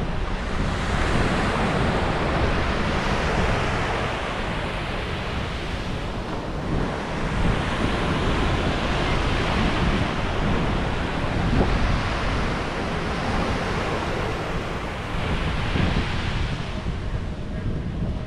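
Sea waves breaking and washing up a beach, the surf swelling and falling back every few seconds. Wind rumbles on the microphone.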